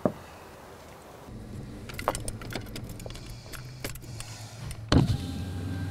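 Car engine idling with a steady low hum, with a few light clicks and a louder thud about five seconds in.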